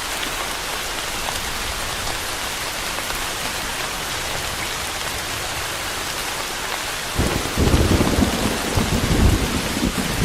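Steady rain falling, with a clap of thunder breaking in about seven seconds in and rolling on as a loud, deep rumble.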